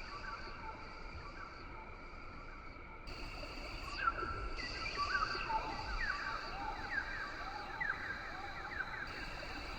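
Rainforest ambience: insects keep up a steady high-pitched trilling while many birds give short chirps and whistles, which grow busier about four seconds in.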